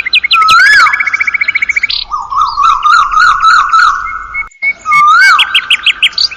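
Bird-chirping sound effect: bright chirps, fast trills and a rising-then-falling swooping whistle, with the swoop recurring several times.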